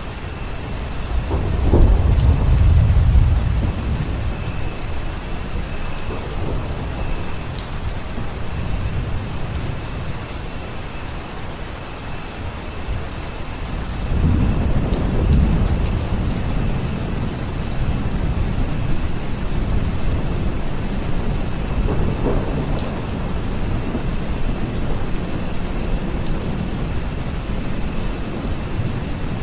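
Steady rain falling, with thunder rumbling low in the background; the rumble swells loudest about two seconds in and again about halfway through.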